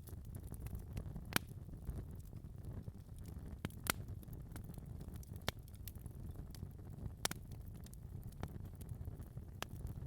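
Fire in a fireplace crackling: a steady low rumble with scattered sharp pops, the loudest about a second and a half and about four seconds in.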